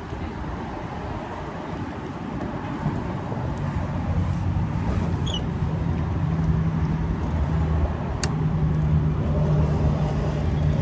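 A vehicle engine running steadily with a low hum that grows a little louder, and a single sharp click about eight seconds in.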